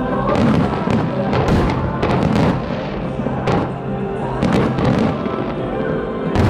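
Fireworks going off in a series of irregularly spaced bangs over loud music.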